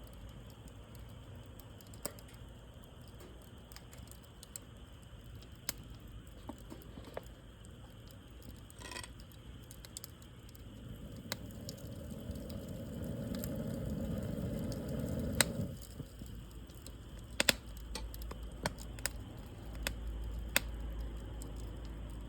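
Wood fire crackling, with irregular sharp pops and snaps. Midway a low rushing noise swells for a few seconds and cuts off suddenly.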